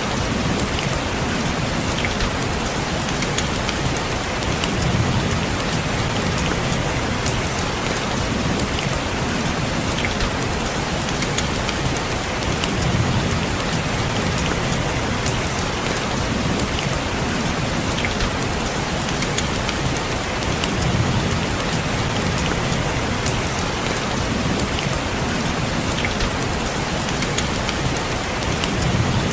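Steady rain falling on a window glass, with scattered sharper drop ticks over an even hiss. A low swell comes and goes about every eight seconds.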